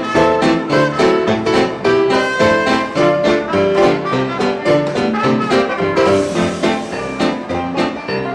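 Live 1920s-style jazz dance orchestra playing an instrumental: brass and reeds carry the tune over a steady, even beat from the rhythm section.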